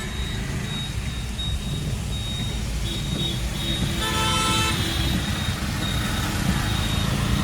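Steady low rumble of a car driving on the road, heard from inside. A vehicle horn toots once, about four seconds in, for under a second.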